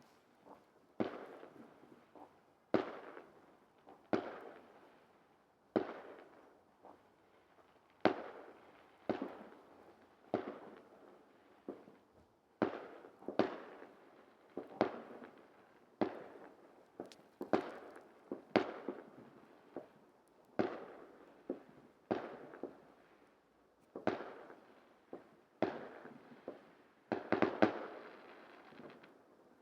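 Aerial firework shells bursting in a steady series of sharp bangs, roughly one a second, each echoing and fading away, with a quick cluster of bangs near the end.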